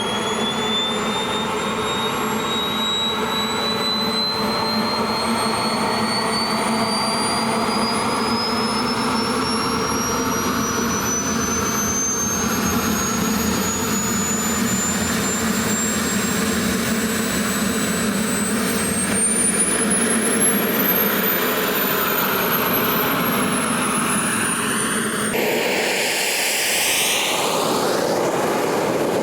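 Turbine engine of a jet-fuel RC model jet running, its high whine climbing slowly for about twenty seconds, then peaking and falling away. Near the end the sound changes to a sweeping rush.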